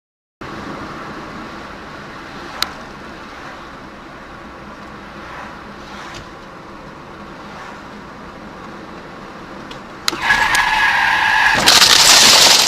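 Steady road noise of a moving car, then about ten seconds in a sudden squeal under hard braking, followed near the end by a loud harsh skidding or crashing noise.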